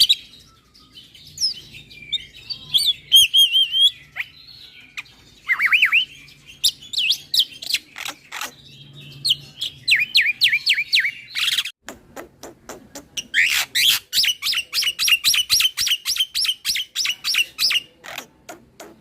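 Black-winged myna (jalak putih) singing a varied song of sharp whistles and down-slurred chirps. Around twelve seconds in it breaks into a fast rolling run of repeated chirps, about four or five a second, that lasts some four seconds.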